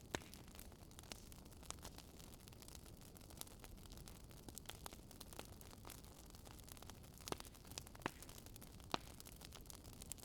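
Wood fire crackling faintly: a soft hiss with irregular sharp pops and snaps, the loudest just after the start and about nine seconds in.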